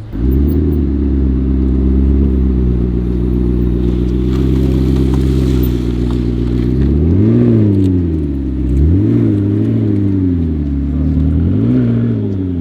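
Car engine running loudly at a steady idle, then revved in a few short blips in the second half, each rise in pitch falling straight back to idle.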